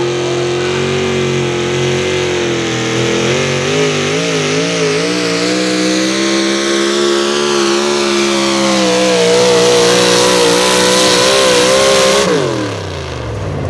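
A 4x4 pulling truck's engine held at high revs under full throttle, dragging a weight sled down the track. The engine note wavers a few times midway, then falls steeply about twelve seconds in as the throttle is lifted at the end of the pull.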